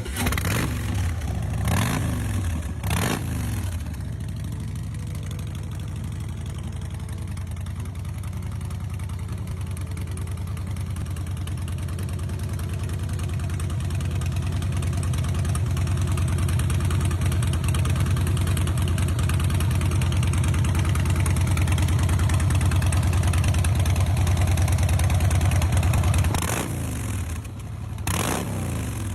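2015 Harley-Davidson Breakout's V-twin with Vance & Hines pipes, idling after a cold start. Three quick throttle blips come in the first few seconds and a few more near the end.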